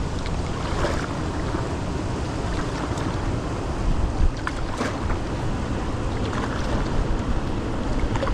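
Strong wind buffeting the microphone over moving water, with a few short, sharp sounds about 1, 3 and 5 seconds in.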